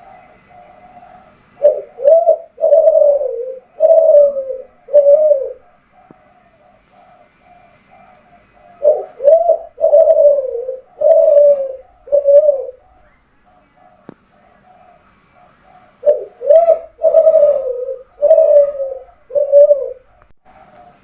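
Kelantan-strain spotted dove (derkuku) cooing: three phrases of about five coos each, several seconds apart, with fainter cooing between them.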